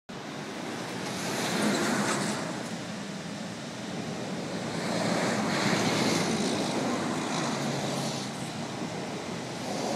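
Boeing 767 twin turbofan engines at takeoff power: a steady jet roar, with wind noise mixed in, that swells about two seconds in and again through the middle.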